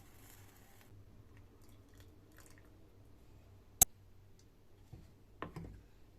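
Small handling sounds: a brief rustle at the start, one sharp click about four seconds in, then a few soft knocks near the end, over a low steady hum.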